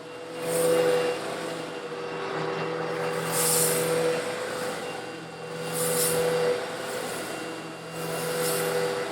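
Eureka vacuum cleaner running with a steady motor hum while it sucks up small coarse stone granules. Four times, about every two and a half seconds, there is a surge of gritty, hissing rattle as a batch of granules is drawn up.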